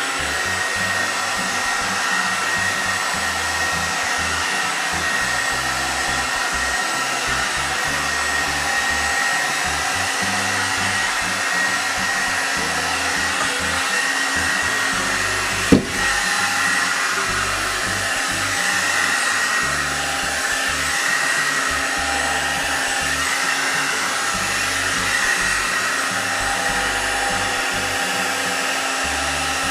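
Hot air blow dryer brush running steadily on its medium setting: rushing air with a steady tone from its motor. A single sharp click comes about sixteen seconds in.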